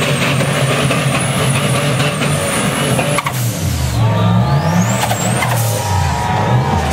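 Turbocharged Chevy LS V8 in a rock-crawling buggy revving up and down under load, its turbo spooling to a high whistle that holds for about three seconds, drops away, then climbs again partway through.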